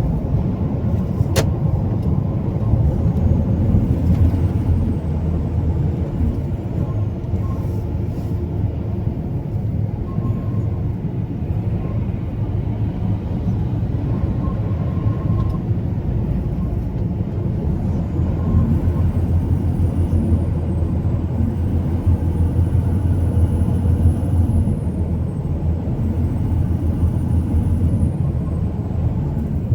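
Truck engine and road noise while driving: a steady low rumble, with a faint high whine that rises and falls in the second half and a single click early in.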